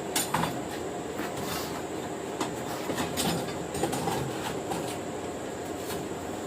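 Steady rushing noise of a running forge, with a scattering of light, irregular clinks and knocks of metal tools and stock.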